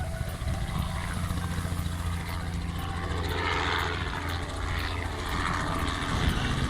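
Helicopter flying away just after takeoff: a steady low rotor and engine hum, with a hiss that swells and fades in the middle.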